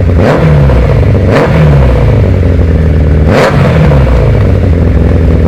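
Suzuki Bandit 600 inline-four engine breathing through a full aftermarket BZL exhaust system, running loudly and revved in three short throttle blips: one right at the start, one about a second and a half in, and one past three seconds, settling back to a steady idle in between.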